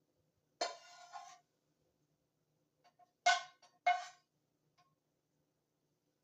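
A utensil knocking against cookware while food is served, each knock followed by a short ringing tone. There is one knock about half a second in, then two more in quick succession around three seconds in, with a few light clicks in between.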